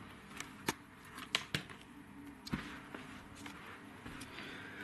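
Plastic DVD cases being handled: a few scattered sharp clicks and taps, faint over a low steady hum.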